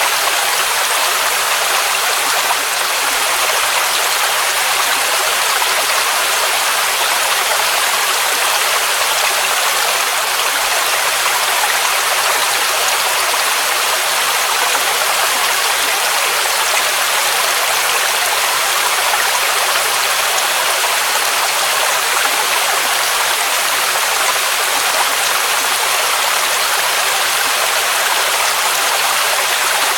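Waterfall rushing steadily: an even, unbroken hiss of falling water, mostly in the upper range with little deep rumble.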